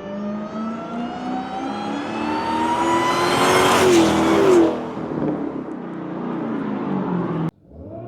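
Supercharged 6.2 HEMI V8 breathing through a K&N cone air filter, revving up with its supercharger whine climbing steadily in pitch for about four and a half seconds, then dropping back. The sound cuts off abruptly near the end.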